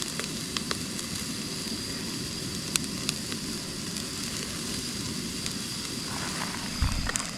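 Hamburger patties sizzling on a grill: a steady frying hiss with scattered small crackles and pops. A brief low thump with a few clicks sounds near the end.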